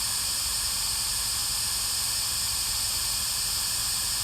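Spirit Box putting out a steady static hiss while the investigators wait for an answer.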